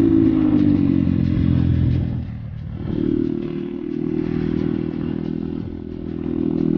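Dirt bike engine ridden on a road: its note falls as the bike slows, drops off briefly about two seconds in as the throttle is eased, then holds steady under power again, with wind rush on the helmet microphone.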